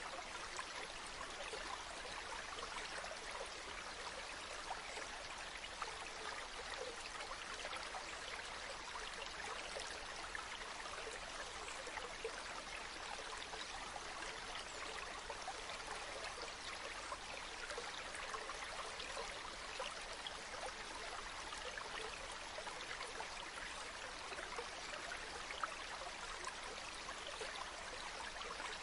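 Waterfall: a steady, unbroken rush of falling water, with small splashes flecked through it.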